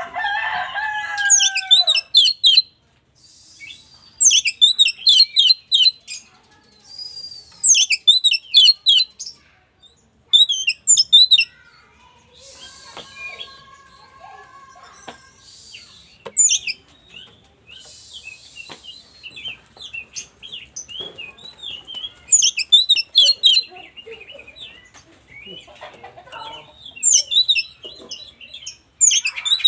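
Oriental magpie-robin (kacer) singing: loud phrases of a second or two made of rapid, high chattering notes. Harsh, rasping notes come between the phrases.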